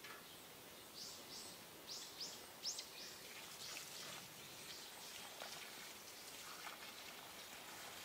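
A bird calling: a quick series of short, high chirps, each falling in pitch, from about one to three seconds in, over faint outdoor background noise.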